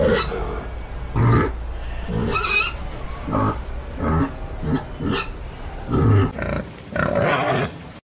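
Pig grunting in a string of short calls that cut off abruptly near the end.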